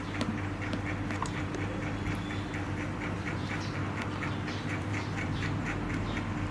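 A baby monkey making an even run of short, squeaky sounds, about five a second, over a steady low hum.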